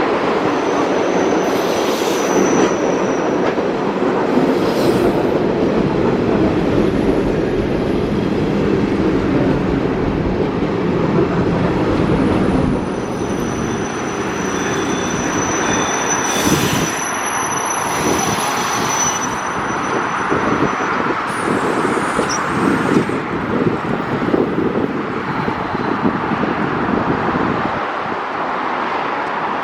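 Electric train running past on the rails: a steady rumble of wheels, with thin high-pitched wheel squeals coming and going, and a rhythm of clacks over the rail joints in the second half.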